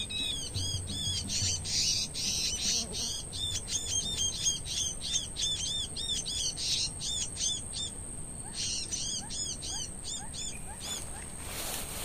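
Prenjak (small warbler) calls: a fast run of sharp, arched chip notes, several a second, with a short break about eight seconds in, over a steady high tone. The calling stops shortly before a brief rustle near the end.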